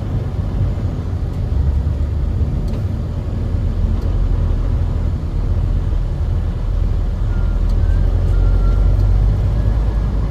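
Steady low rumble of a truck on the move: engine and road noise.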